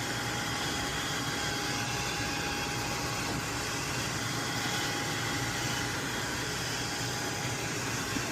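Steady mechanical running noise, a constant rush with a faint steady whine in it that drops out near the end, typical of HVAC machinery running.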